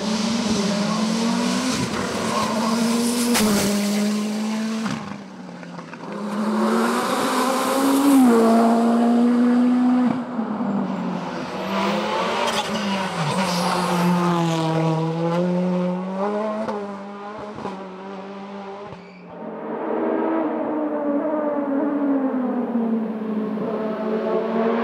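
Hillclimb race car engines at full throttle, the revs climbing and dropping back with each gear change as the cars accelerate past. The sound fades twice and builds again.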